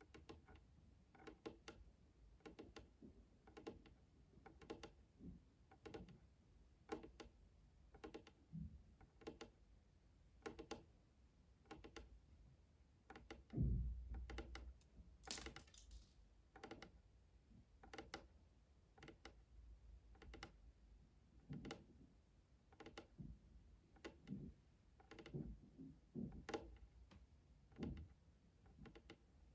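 Quiet, soft, irregular tapping and clicking, one or two taps a second, like fingers working small objects for ASMR, with a louder dull thump about halfway through and a brief hiss a couple of seconds after it.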